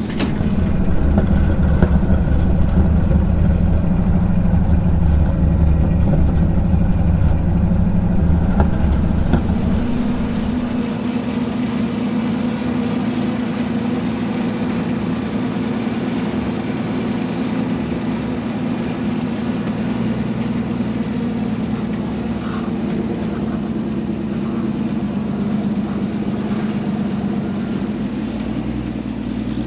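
Off-road recovery truck's engine running steadily as it drives along a rough dirt trail, heard from inside the cab. A heavy low rumble eases off about ten seconds in.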